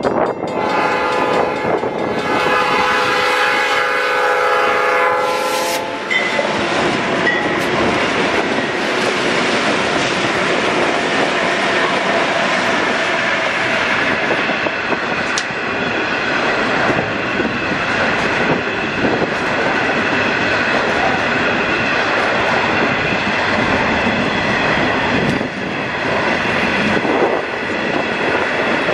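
Black Mesa & Lake Powell electric coal train at a grade crossing: the locomotive's chime air horn sounds for about five seconds and cuts off sharply. The steady rumble and rattle of the wheels and cars rolling past follows.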